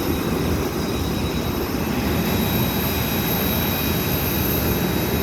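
Airliner turbine engine running steadily on the apron: a constant rumble with a thin high-pitched whine over it.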